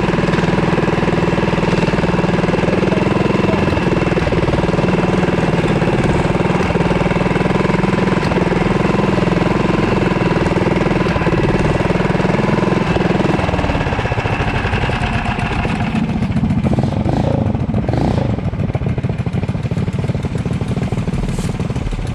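Mini bike's small engine running steadily under way. About two-thirds of the way through it eases off to a lower, quieter note as the bike slows.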